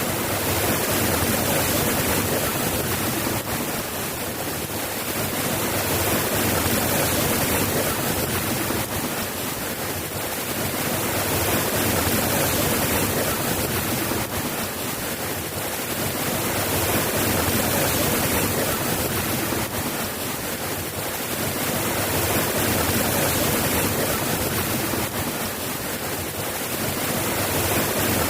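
Steady rain falling, a dense even hiss that swells and eases gently every five seconds or so.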